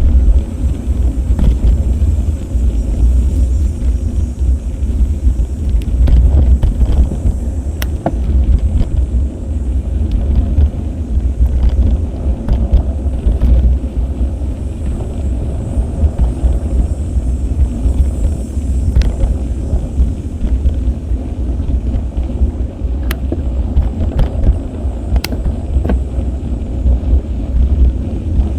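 Steady wind rumble and rolling road noise from a moving bicycle, picked up by an action camera, with a few sharp clicks from the bike over bumps.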